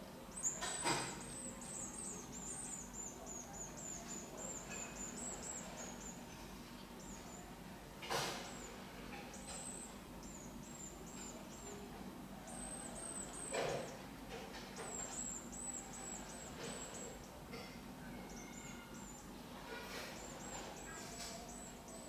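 Spiderhunters calling: bouts of rapid, very high, thin squeaky notes, each dropping slightly in pitch, lasting several seconds at a time. Three sharp knocks stand out, the loudest things in the clip, one near the start and two spread through the middle.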